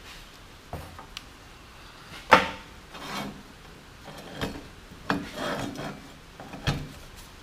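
Metal parts being handled and fitted together: a series of knocks and clanks, the loudest about two seconds in with a short metallic ring, with rubbing and scraping between them.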